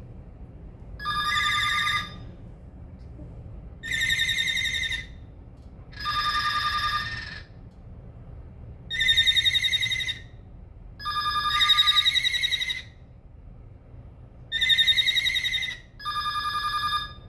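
Cockatiel singing: seven warbled, trilling whistles of about a second each, separated by pauses of one to two seconds, with a ringing, phone-like quality.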